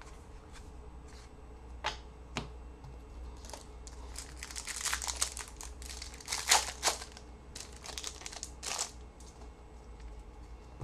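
Trading card pack wrapper being torn open and crumpled: a couple of sharp clicks, then several seconds of crackling and crinkling, loudest past the middle.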